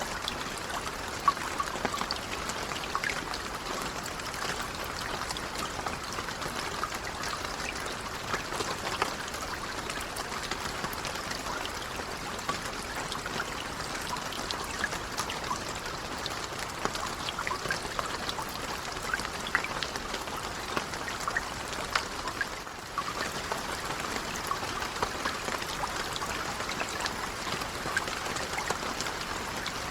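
Steady, gentle rain with many individual drops pattering and water trickling, with a brief dip in level about three quarters of the way through.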